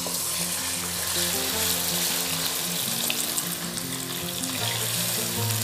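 Raw chicken pieces sizzling as they hit and fry in hot oil in a karahi: a steady, even hiss, with the occasional scrape of a silicone spatula turning them.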